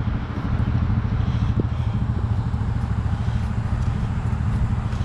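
An engine running steadily at a constant speed, a low even rumble, with a faint tick or two.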